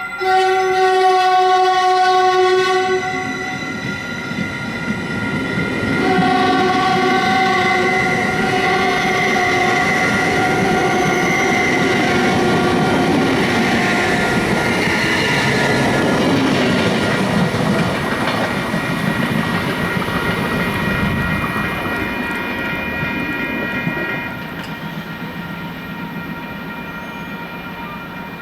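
Diesel locomotive sounding its multi-chime air horn as the train passes: a blast ending about three seconds in, then a long blast from about six seconds in to about fourteen. The passing train's wheels and rails rumble on and drop away near the end.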